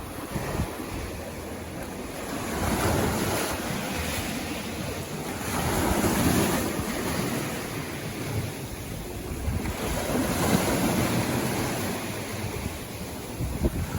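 Sea waves breaking and washing up the shore, the surf rising in broad noisy swells about every three to four seconds.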